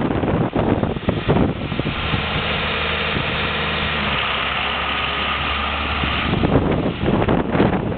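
John Deere 4450 tractor's diesel engine running steadily. Blizzard wind buffets the microphone at the start and again near the end, and eases off for a few seconds in the middle.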